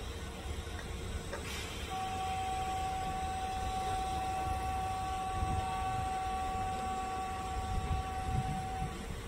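Train running along the track with a steady low rumble. About two seconds in, a single steady pitched tone starts and holds for about seven seconds before stopping.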